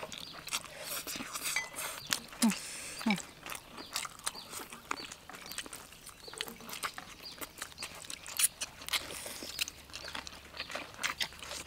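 A person eating chili noodles and chicken up close: chewing and lip smacking, many short clicks and smacks. Two short low voiced sounds, like brief 'mm's, come about two and a half and three seconds in.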